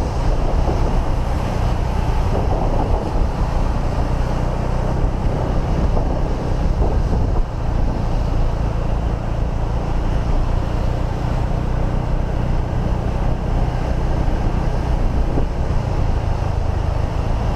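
Steady wind rush on the microphone over the running engine of a motorbike being ridden along the road.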